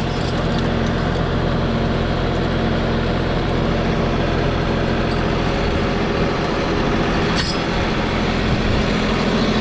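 Logging tractor engine running steadily at a low, even speed. A single short click sounds about seven seconds in.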